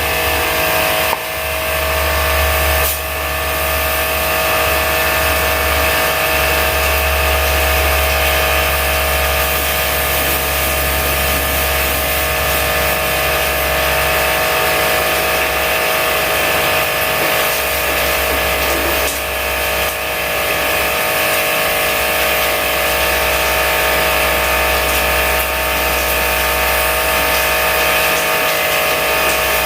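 Electric pressure-washer pump running steadily with a hiss of spraying water, as used to wash a split-type air conditioner. It falters briefly a few times.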